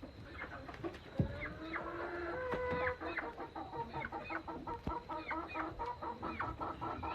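A flock of roosting chickens clucking and chattering in many short overlapping calls as they settle for the night, with a knock about a second in and another near the five-second mark.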